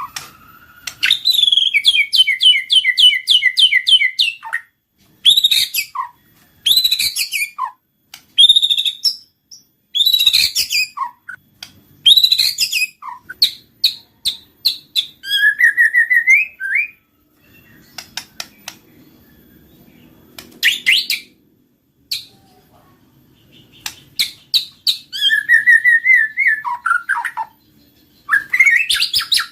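White-rumped shama singing: loud, varied phrases of clear whistles, sliding notes and fast rattling trills, each phrase a second or two long with short pauses between them.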